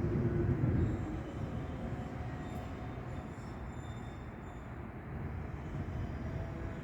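Low, steady vehicle rumble, louder in the first second, easing off, then swelling again near the end.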